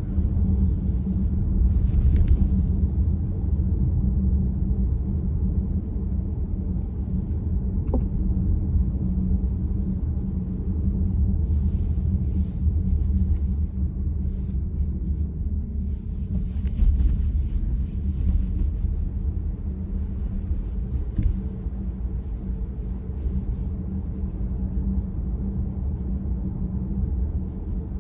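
Steady low rumble of a car, with a few faint clicks scattered through it.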